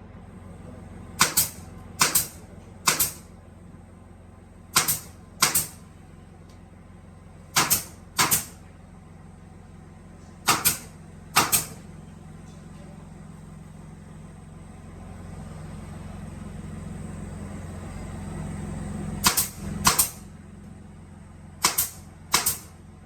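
Steady hum of workshop machinery with a dozen or so sharp, loud knocks, mostly in pairs a little under a second apart, as wooden legs are handled on a drilling machine. The hum swells for a few seconds before the loudest pair of knocks.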